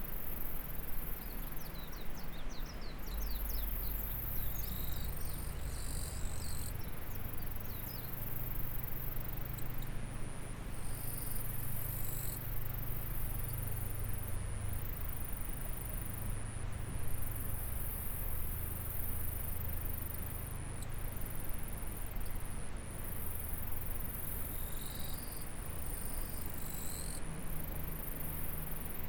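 Insects calling in a high, shimmering trill that stops and restarts every few seconds, over the steady rush of a small stream. Short bursts of rapid chirping come in twice, in the first few seconds and again near the end.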